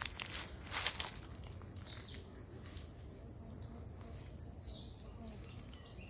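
A few short, high bird chirps against a quiet outdoor background, with brief rustling in the first second.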